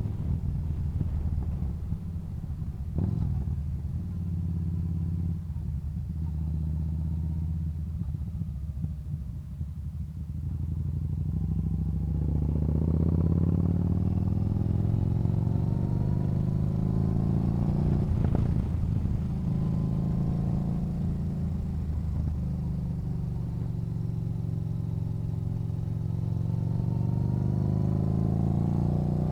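Yamaha Bolt's air-cooled V-twin engine running under way, a low steady rumble that picks up about halfway through, its pitch climbing and dipping as the bike accelerates and shifts.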